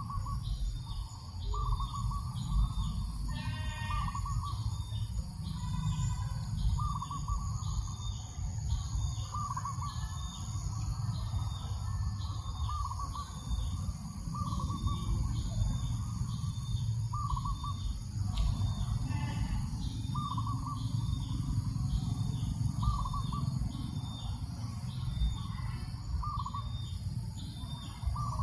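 Birds calling in a steady rhythm: one short low note repeating about every second and a half to two seconds over a faster, higher repeating call. Steady breeze rumble underneath.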